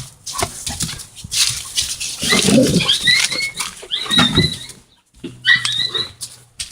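A dog whining in short, high-pitched cries, in three bouts, with rustling and small knocks between them.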